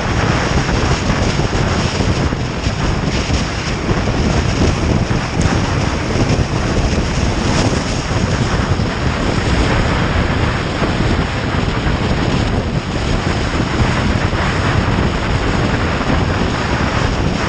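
Loud, steady wind rush and buffeting over the microphone of a camera riding on a motorcycle at speed, drowning out most of the engine.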